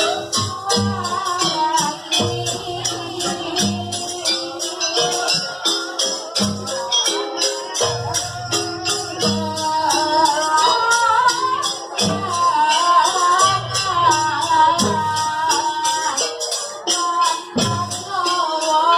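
Live Javanese jaranan ensemble music: a wavering melody line over fast, dense jingling percussion and steady low drum beats.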